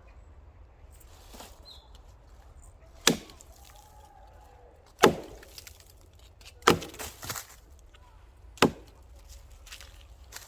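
Hatchet splitting firewood: four sharp chopping strikes, roughly two seconds apart, with a few smaller cracks of wood just after the third.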